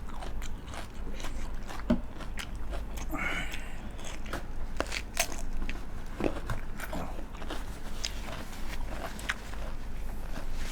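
Close-up eating sounds: chewing and biting food, with many short crunches and crackles.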